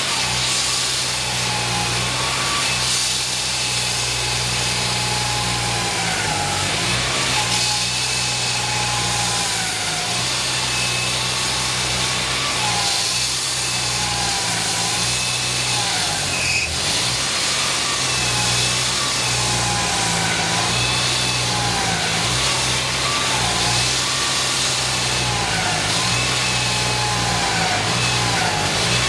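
An engine running steadily at a constant speed, with higher wavering whines that come and go every second or two.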